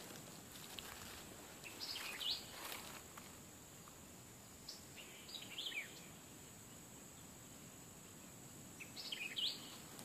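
An unidentified wild bird calling: three short bursts of quick, high, partly downslurred notes about three and a half seconds apart, over a steady high whine.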